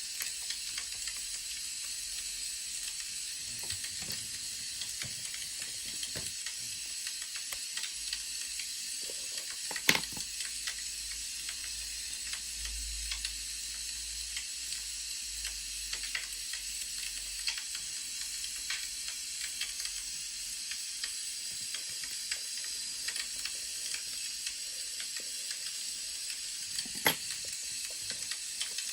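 Crackling wood fire: a steady hiss peppered with small crackles and ticks, with two louder sharp snaps, one about ten seconds in and one near the end.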